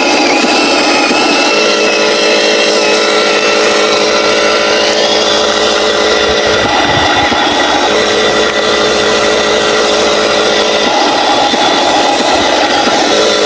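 Huina 1501 radio-controlled Scania 770S logging truck running: a steady motor drone made of several stacked tones, turning rougher and noisier for about a second three times.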